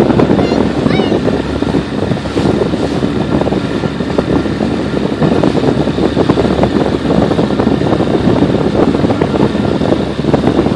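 Small motorboat under way, its motor running steadily under wind buffeting the microphone and water rushing and slapping against the hull.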